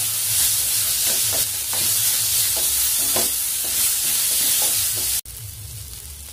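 Mashed potato and eggplant bharta frying with a steady sizzle in a nonstick pan, with a wooden spatula scraping through it about twice a second. About five seconds in, the sizzle cuts off suddenly, leaving a quieter low hum.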